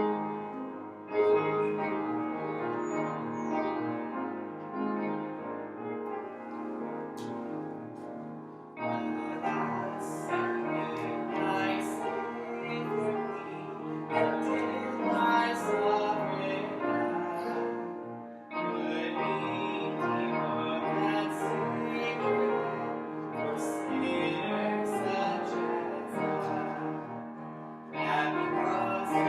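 Piano-led music, played in phrases that pause briefly and start again about every nine or ten seconds.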